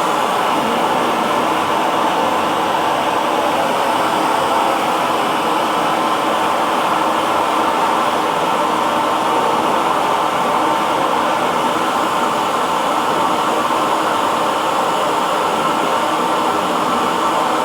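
Electric hair dryer running steadily: a constant, even rush of blown air with a faint steady motor hum in it.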